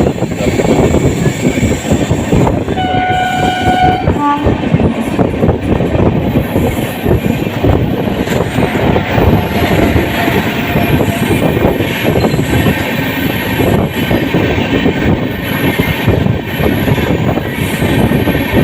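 Indian Railways express train running at speed, heard from on board: a steady rumble with wheels clattering over the rails. A locomotive horn sounds one steady blast of about a second and a half near the start.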